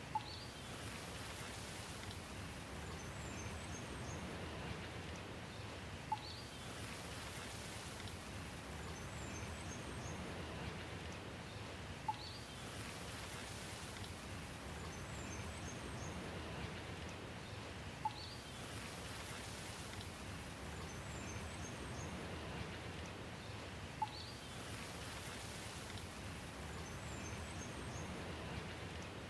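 Steady rain hiss with a pattern that repeats exactly every six seconds, as in a looped recording. Each pass brings one sharp tick, the loudest sound, five times in all, and about three seconds after each tick a few faint, high bird chirps.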